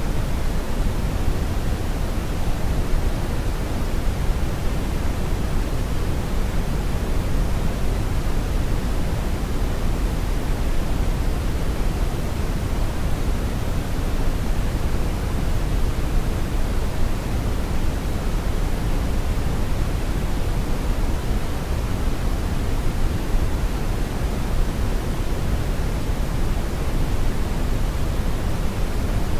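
Steady brown noise: a constant, even rumbling hiss weighted toward the low end, with no change or events.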